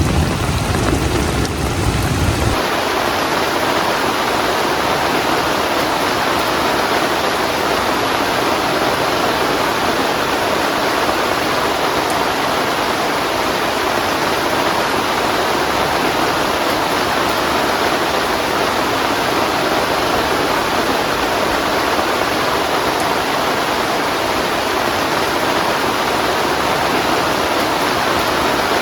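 Steady rain falling hard in an even hiss. A low wind rumble on the microphone cuts off abruptly about two and a half seconds in.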